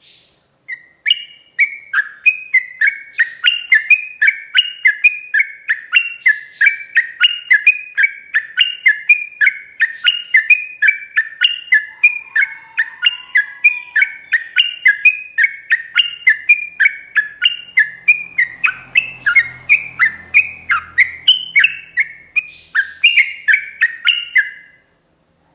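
Yellow-vented bulbul (trucukan) singing a long, unbroken run of short chirping notes at about three a second, the rapid continuous 'ropel' song used as tutoring audio for caged birds. It stops about a second before the end.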